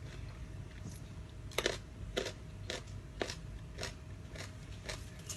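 Close-up crunchy chewing of a mouthful of dry rice-noodle salad with crispy squid: sharp crunches about every half second, starting about a second and a half in.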